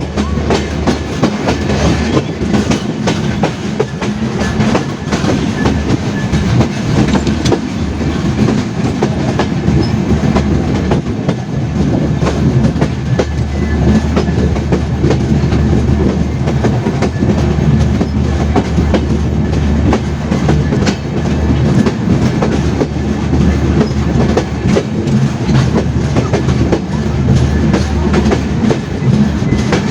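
Passenger train running along the track, heard from aboard: a steady low rumble with wheels clattering over the rail joints.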